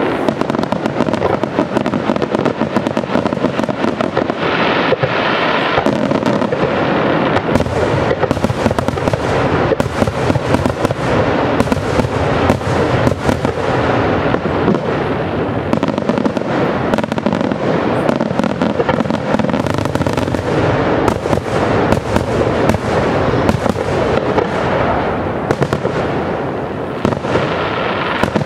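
Aerial fireworks display: a dense, unbroken barrage of shell bursts, many sharp bangs in quick succession with no pauses.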